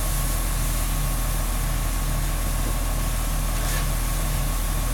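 Fire engine's diesel engine running steadily at idle, a constant low hum with a thin steady whine and an even hiss over it.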